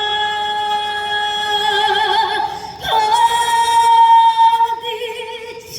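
Trot song performed live by a female singer over a backing track: two long held notes with vibrato, the second one higher.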